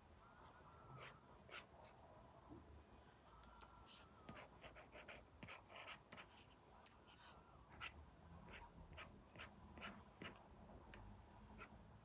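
Apple Pencil Pro tip drawing on an iPad screen fitted with a paper-like matte film: faint, irregular light taps and short scratchy strokes.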